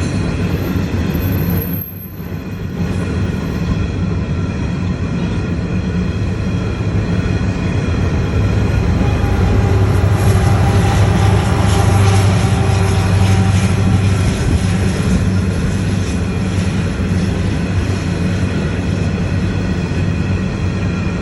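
Train cars rolling past on the rails in a steady, loud rumble, with a short dip about two seconds in.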